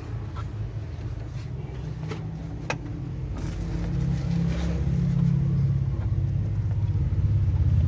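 Mitsubishi 4D56 diesel engine running cold on test after a starter repair, its low running sound growing louder over the first few seconds and then holding steady.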